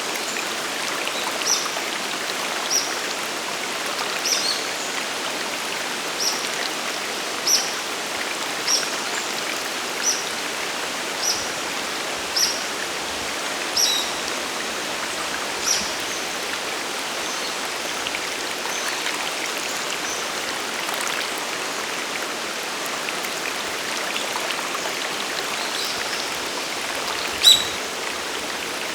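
Steady rush of falling water at Sagiri Falls on the Nanuki River. Over it, a bird repeats a short high call about once a second for the first half, and gives a sharper call near the end.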